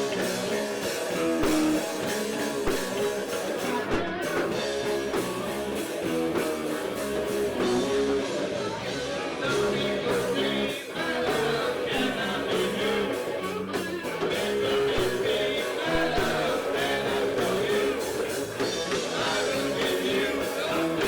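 A rock band playing, led by electric guitar over bass and drums.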